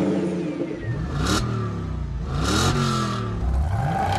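Car engine revving up several times, its pitch rising with each rev, mixed with whooshing sweeps: a sound effect for a logo intro.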